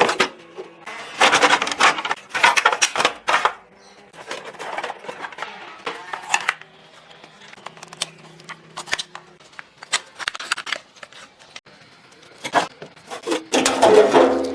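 Irregular clattering, scraping and knocking of parts being handled, in two louder bursts about a second in and near the end, with quieter handling in between.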